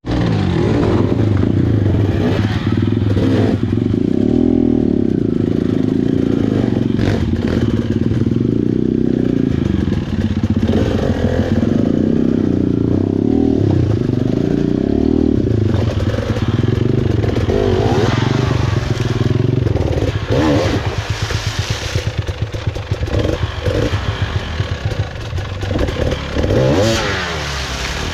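Small dirt bike engine running and revving up and down while riding over river rocks, with clattering knocks mixed in.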